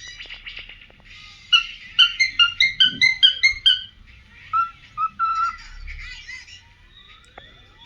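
Pearl cockatiel singing: a quick run of short whistled notes, about five a second, then looser whistles and warbling.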